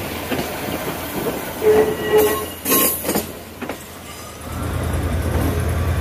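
Northern Class 158 diesel multiple unit rolling slowly past at close range: its wheels clank over the track several times, with a short squeal about two seconds in. A low steady diesel hum builds up in the last second and a half.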